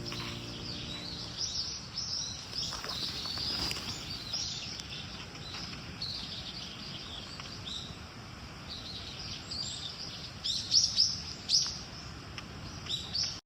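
Small birds chirping and calling, many short high chirps over a steady low background hiss, with a run of louder chirps near the end.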